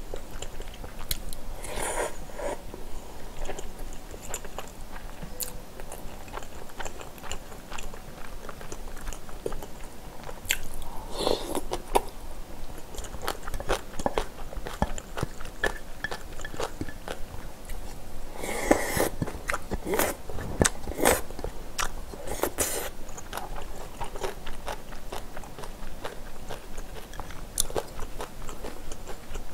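Close-miked eating sounds: chewing and biting on rice and Spam kimchi stew, with many short clicks and a few louder noisy moments from about halfway on.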